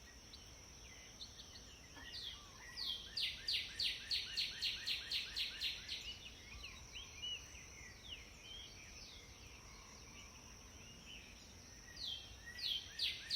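Pileated woodpecker calling: a fast, even series of loud, high, down-slurred notes, about four a second for some three seconds, with a second series starting near the end. A steady thin high whine and a few faint chirps lie underneath.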